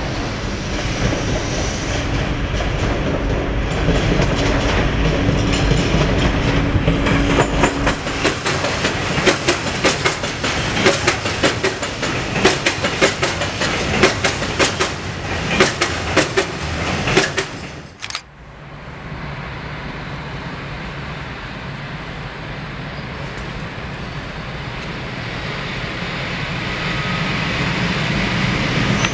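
A Voith Maxima 40 CC diesel-hydraulic locomotive passes with a train of open coal wagons: a steady engine drone, then a rapid clickety-clack of the wagons' wheels over the rail joints. About eighteen seconds in the sound cuts off abruptly, and an EP07 electric locomotive hauling a passenger train approaches, a steady rumble growing louder near the end.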